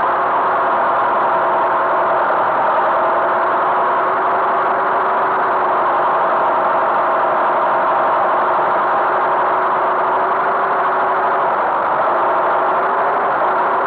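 Tractor engine running steadily at an even speed, with a slight wavering in pitch near the end.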